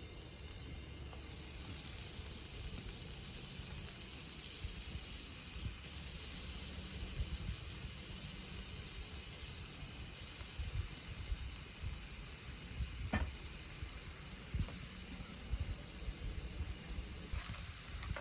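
Food sizzling on a grill over charcoal: a steady hiss with a few sharp pops.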